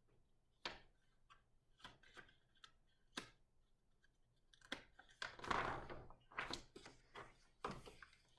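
Pages of a large paper big book being handled and turned: a few sharp taps and paper rustling, with the longest rustle a little past the middle.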